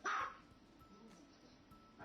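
A dog barks once, a single short, sharp bark right at the start.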